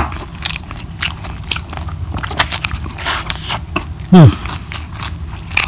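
Close-miked eating sounds: wet chewing and lip smacking on chicken curry and rice, a string of small clicks. About four seconds in, a brief loud hum from the eater that falls in pitch.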